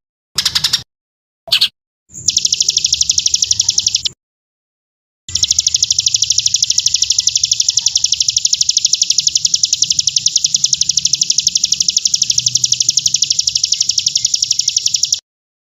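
Fast, even, high bird trill repeated as cut-together bursts: a short one or two, then a couple of seconds, then a long run of about ten seconds, each stopping abruptly. It is filler song (isian) of the kind played to train white-rumped shamas.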